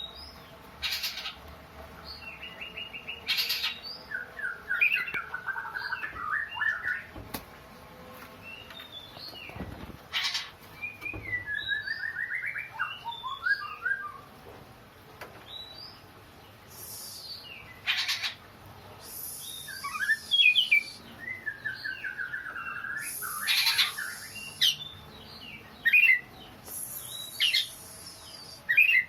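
Oriental magpie-robin (kacer) calling: quick runs of repeated chirping notes mixed with loud, harsh rasping calls, a sobbing sound likened to a child crying.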